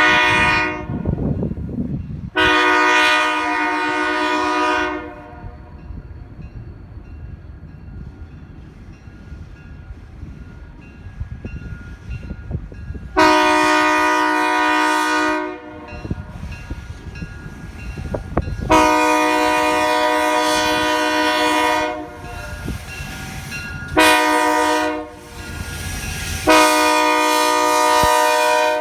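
A diesel locomotive's multi-chime air horn sounds a series of blasts over the low rumble of the passing train. After a brief blast at the start and a long one, a pause follows, then long, long, short, long: the standard warning for a grade crossing.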